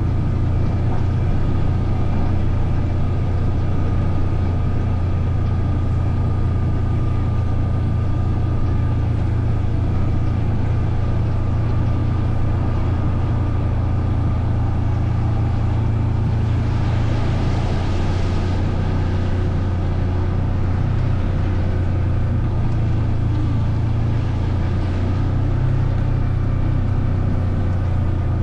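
Off-road vehicle's engine running steadily under way with a low, even drone; a brief hissing rush rises and fades about two-thirds of the way through.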